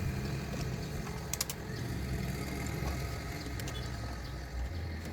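Honda Civic Genio engine idling steadily, a low even hum, with a couple of light sharp clicks about a second and a half in.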